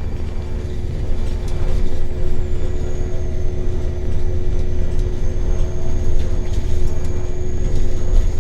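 Onboard sound of a Scania L94UB city bus with its OCS9 compressed-natural-gas engine running under way: a steady low drone with a faint high whine and a few light rattles.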